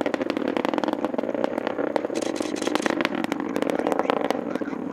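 Atlas V rocket's engines during ascent: a steady, dense crackling rumble.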